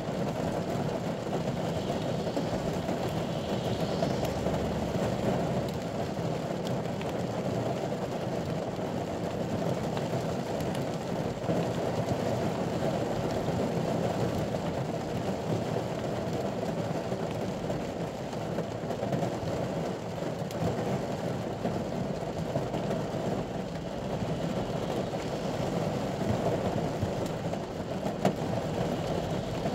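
Rain falling on a ute's cab roof and windscreen, heard from inside the cab as a steady, even rushing noise.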